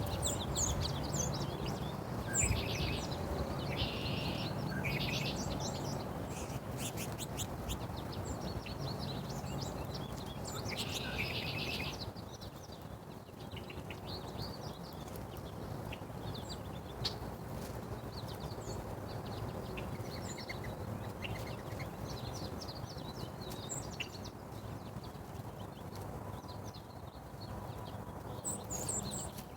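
Small birds chirping in short, scattered calls, busiest in the first half and again near the end, over a steady low rumble.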